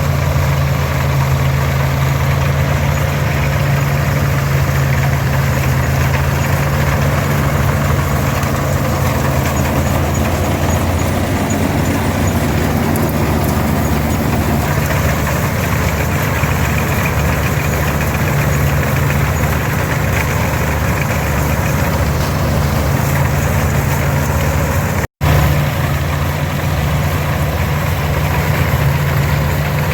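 International 460 diesel tractor engine running steadily while pulling an International 82 pull-type combine, with the combine's machinery adding a broad mechanical noise over the engine's low drone. The sound cuts out for a moment about 25 seconds in.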